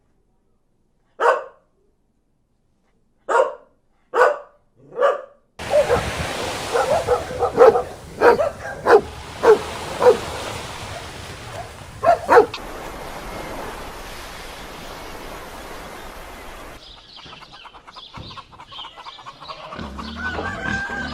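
Dog barking: four single barks with short gaps, then a quick run of barks over steady background noise, and two more barks a couple of seconds later.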